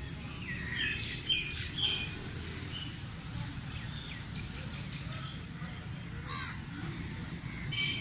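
Birds calling, with a loud cluster of sharp calls about a second in and a few more near the end, over a steady low background rumble.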